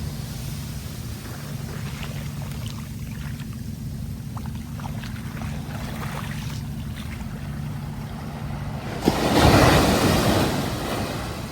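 Sea waves: a wave breaks and washes in about nine seconds in, then fades, over a steady low rumble, with faint fizzing and crackling of water before it.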